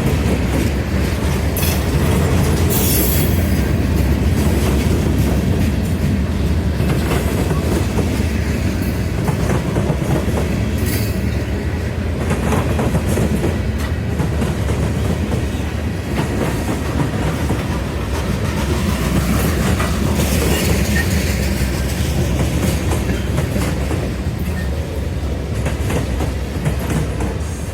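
Freight train cars rolling past in a steady rumble, their wheels clicking over rail joints, with a few brief high-pitched wheel squeals.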